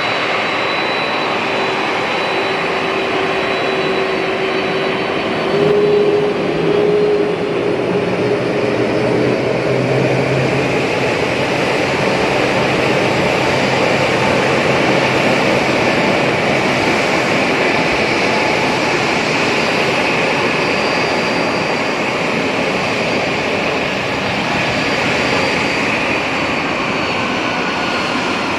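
Jet airliner engines running, a steady roar with a high whine over it, swelling briefly louder twice about six seconds in.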